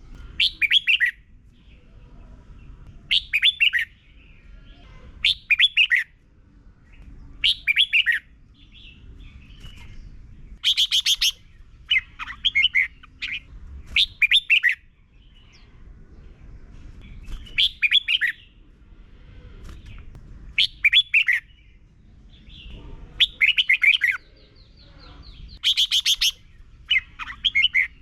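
Red-whiskered bulbul singing short phrases of quick descending notes, one phrase about every two seconds, with a few brighter, higher-pitched calls mixed in.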